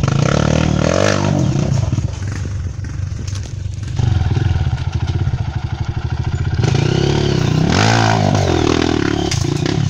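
Dirt bike engine revving hard under load as the bike climbs rock ledges. The revs rise and fall, with a quick rev up and down about eight seconds in.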